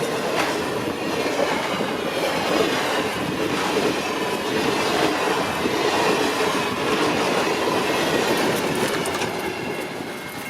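Alaska Railroad train rolling past: a steady din of steel wheels on the rails with clickety-clack over the rail joints, easing off near the end.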